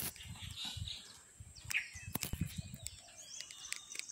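Birds chirping in short, scattered calls among the trees, over low irregular bumps and a few sharp clicks from the handheld phone being moved.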